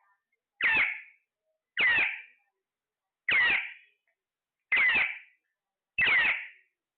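Parrot giving five loud calls in a steady series, about one every 1.3 seconds. Each call starts sharply and dies away within half a second.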